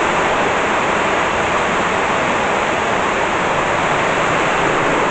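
Heavy rain in a tropical thunderstorm downpour, falling steadily and loudly.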